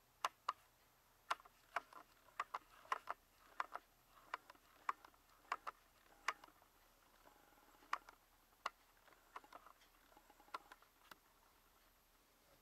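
Light wooden clicks and knocks at uneven intervals, about twenty in all, like small hardwood clock parts being handled and set down against each other.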